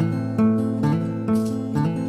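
Acoustic guitar playing the song's opening: plucked and strummed notes, changing about every half second.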